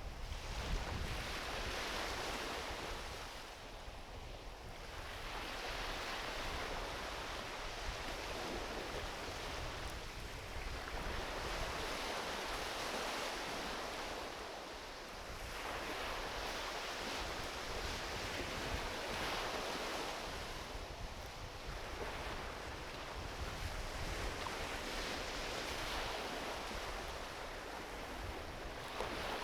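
Small ocean waves washing onto a beach, swelling and falling back about every five to six seconds, with a low rumble of wind on the microphone underneath.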